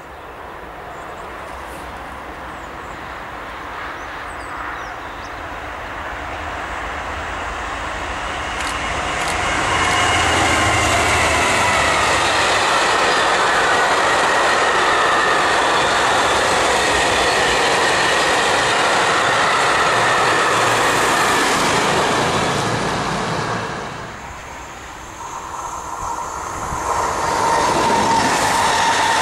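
Long freight train of tank wagons approaching and rolling past, the noise building for about ten seconds and then holding steady, with the wheels clattering and squealing on the rails. After a sudden drop at about 24 s, a second train, an SNCF Regio 2N double-deck electric unit, approaches and grows louder near the end.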